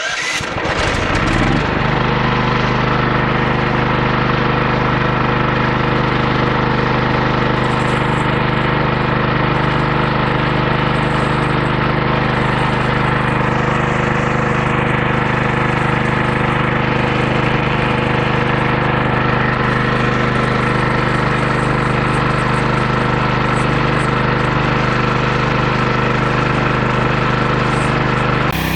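14 hp 420cc single-cylinder engine of a homemade bandsaw sawmill speeding up over the first couple of seconds, then running steadily at high speed, driving the band blade through a cut. Just before the end the engine note drops.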